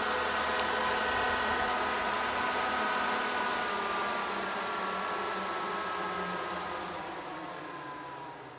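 Dog-cage ventilation fan, rated 900 m³/h, running with a steady rush of air and a whine. About halfway through, the whine falls in pitch and the sound fades as the fan slows down.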